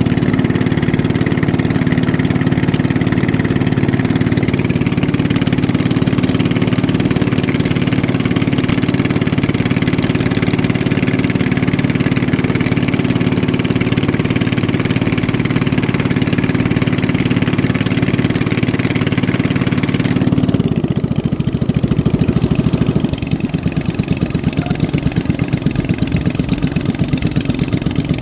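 Racing boat engine running steadily for about twenty seconds, then its sound drops. For the last few seconds it runs at a lower, evenly pulsing idle.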